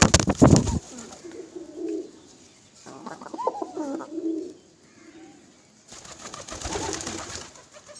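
Pigeons cooing, several low, rolling coos, with a loud, brief burst of noise in the first second.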